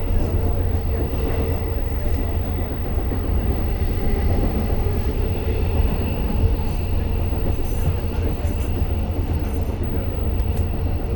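Long Island Rail Road train running along the track: a steady low rumble of wheels and track, with faint high-pitched tones from about six to ten seconds in.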